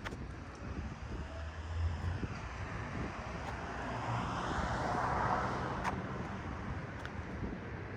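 City street traffic: a vehicle passes, its tyre and engine noise swelling to a peak about five seconds in and then fading, over a steady low engine hum.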